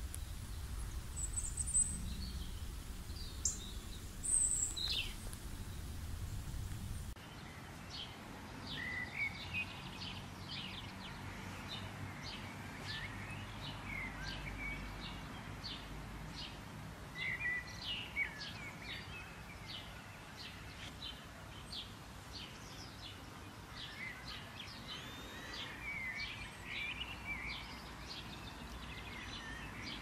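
Birds chirping and singing over a low steady background rumble; about seven seconds in, the background drops away and a denser chorus of short, quick chirps and trills begins.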